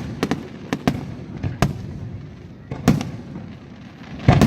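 Aerial fireworks bursting overhead: about eight sharp bangs and cracks at uneven intervals, each with a short echoing tail, the loudest near the end.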